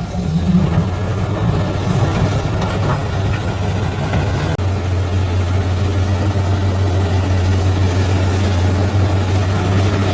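Bulldozer's diesel engine running steadily with a deep, even drone. There is a brief break about halfway through, after which the drone carries on.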